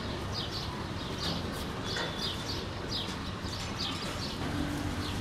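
Small birds chirping in quick, repeated short calls over a steady low hum.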